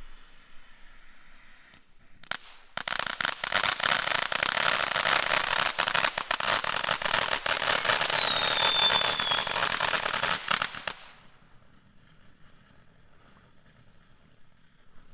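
Firework fountain going off in a dense run of crackling for about eight seconds, with a falling whistle partway through, then stopping suddenly.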